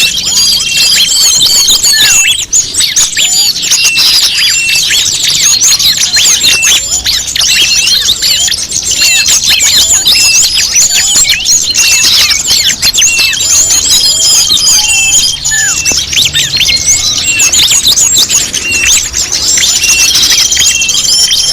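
Bird-luring (pikat) recording of many small songbirds calling at once: a dense, unbroken mix of quick chirps, twitters and short whistles, with a held high whistle standing out a few times.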